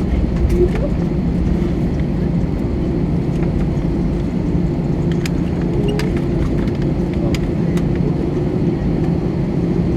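Steady low rumble of an Airbus A321 heard from inside the passenger cabin, with a few faint clicks and rattles scattered through it.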